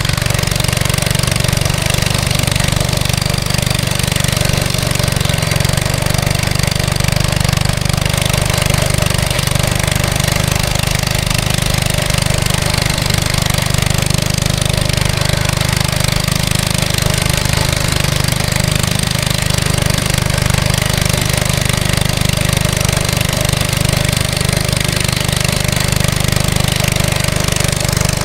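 Mini bike's small single-cylinder Briggs & Stratton engine running steadily, with a strong low drone and no clear revving.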